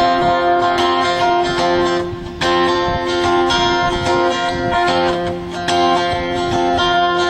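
Acoustic guitar strumming steady chords, with no singing.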